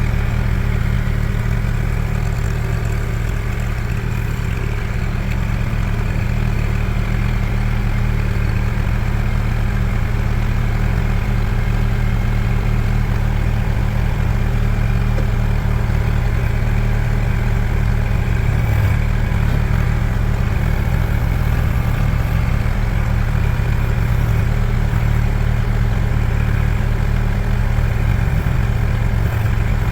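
Kubota L2501 tractor's diesel engine running steadily at low speed, without revving up or down.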